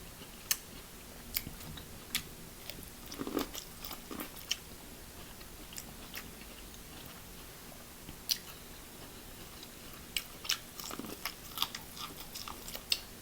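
A person biting and chewing corn on the cob, with scattered sharp mouth clicks and a few soft, lower chewing sounds.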